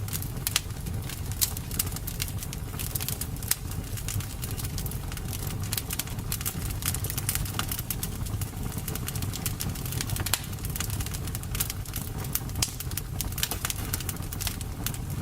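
Bonfire crackling, with many irregular sharp pops and snaps over a steady low rumble of the flames.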